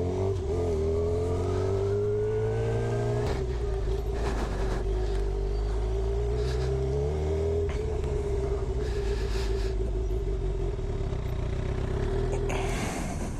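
Suzuki GSX-R 750 inline-four motorcycle engine running, its pitch rising over the first few seconds and then holding steady. It grows a little quieter near the end.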